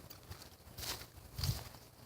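Footsteps of a person walking at an even pace, a step about every half second.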